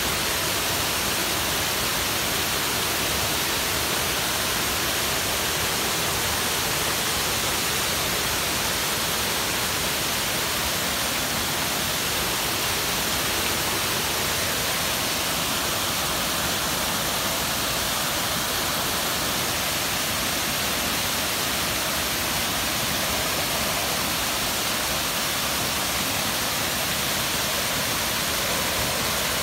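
Small waterfall of a natural stream, water pouring and splashing in a steady, loud rush.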